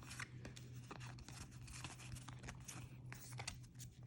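Faint crinkling and tearing of a foil Pokémon booster pack wrapper being opened and handled, in many short rustles, over a steady low hum.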